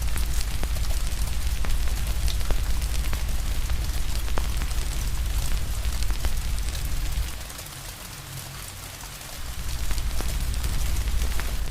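Wood fire crackling with sharp, irregular pops over the steady hiss of rain. A deep low rumble underneath drops away for a couple of seconds past the middle, then comes back.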